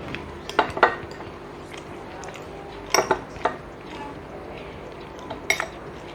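Tableware clinking during a meal: short, sharp clinks of plate and dishes, a pair about half a second in, a cluster around three seconds in, and another near the end.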